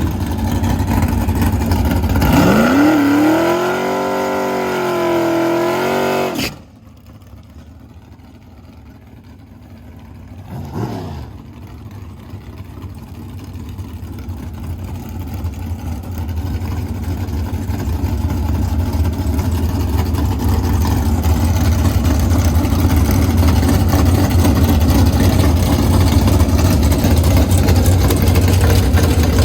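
Race car engine revving with a rising, wavering pitch for a few seconds before it cuts off abruptly. Then comes a quieter engine rumble that builds steadily louder, with a brief falling whine about eleven seconds in.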